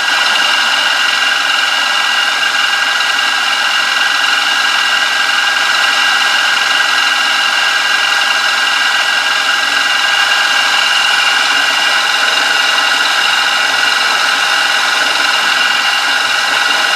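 Milling machine running steadily, a constant whine made of several steady tones over a machine hum.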